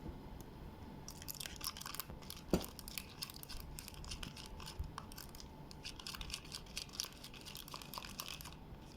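Wet, sticky slime mixture of glue, lotion and beads being stirred in a bowl, a fast irregular run of faint squelchy clicks, with one louder tap of the stirrer against the bowl about two and a half seconds in.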